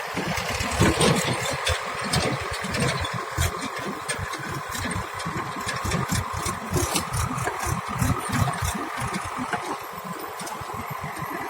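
Diesel engine of the earthmoving machinery running with an uneven low throb, with scattered knocks and rattles over it.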